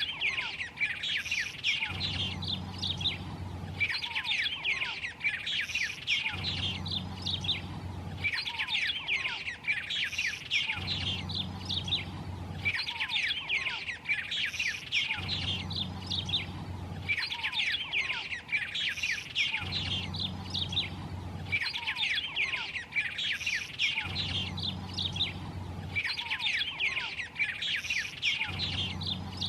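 White-rumped tanager singing: dense phrases of quick, sharp falling notes, repeated over and over at about two-second intervals.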